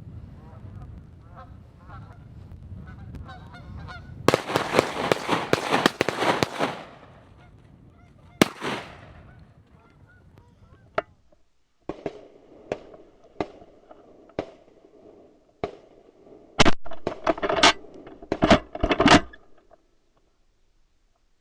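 Canada geese honking: a low chorus at first, a dense loud outburst of calling about four seconds in, then scattered single honks that grow loud again near the end.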